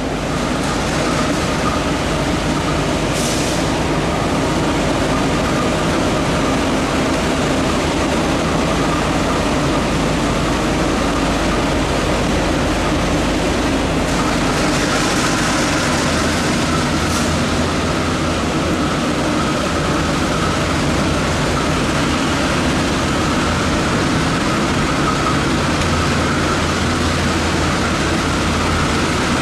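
Logawa passenger train running, a steady, loud rail noise with a faint whine held throughout, and brief bursts of hiss about three seconds in and again around the middle.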